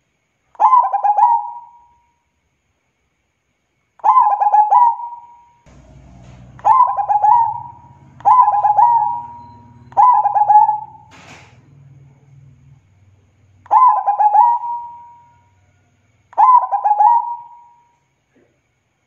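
Zebra dove (perkutut) cooing: seven separate phrases, each a quick stuttering run of notes that ends in a drawn-out coo, with gaps of one to four seconds between them.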